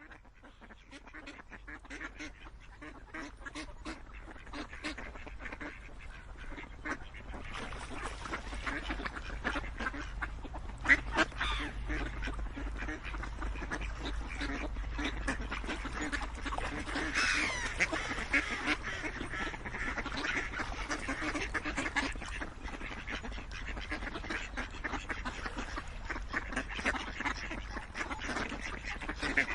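A flock of ducks quacking, many overlapping calls at once, fading in over the first few seconds and then continuing at an even level.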